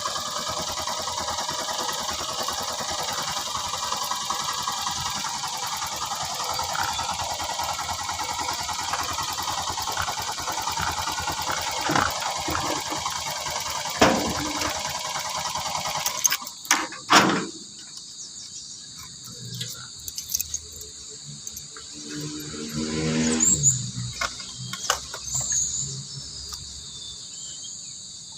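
Motorcycle engine running steadily, then shut off a little past halfway with a few knocks, leaving crickets chirping. A brief falling squeal sounds near the end.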